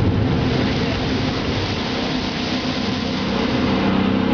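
Jet boat engine running steadily under way, its low hum over a constant rush of noise, growing a little stronger near the end.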